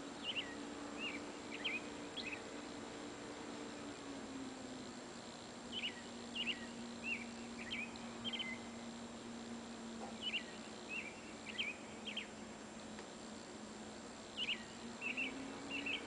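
A songbird singing short phrases of four or five quick, high, down-slurred chirps, repeated about every four seconds, with a faint steady low hum underneath.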